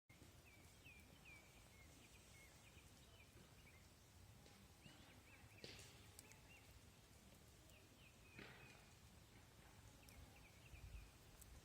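Faint outdoor ambience: soft, repeated high chirps come and go, with a couple of faint clicks about six and eight seconds in.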